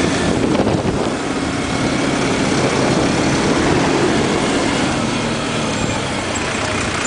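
Motorcycle engine running, with wind and road noise, heard from the pillion seat of the moving bike.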